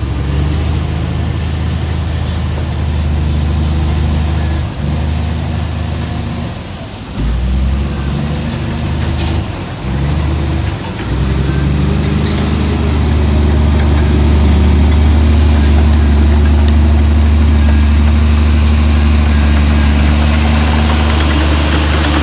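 Heavy diesel engine of an earthmoving machine running steadily with a low drone. It dips briefly twice, then runs louder and steady from about halfway.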